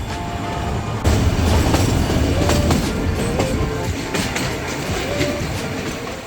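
Nilgiri Mountain Railway toy train running on its rails: a low rumble with clattering wheel knocks sets in suddenly about a second in, with a few short wheel squeals.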